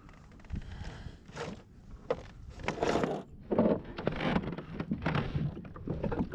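Kayak paddle strokes splashing in the water, a regular stroke about every three quarters of a second.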